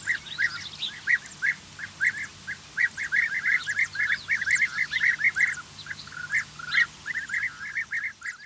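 European bee-eaters giving their liquid, rolling call: short notes repeated rapidly and overlapping, thickest in the middle.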